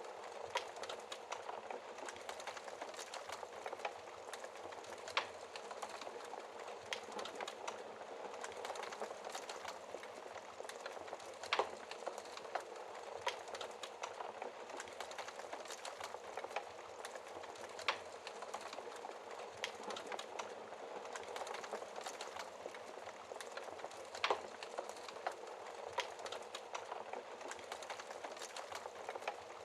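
Wood fire crackling in a fireplace: a steady hiss of burning with constant small ticks and a sharper pop every six seconds or so.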